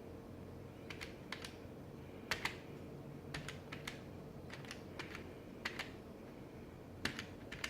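Calculator keys pressed one at a time to add up figures: sharp clicks at an uneven pace, often two close together, over a faint steady hum.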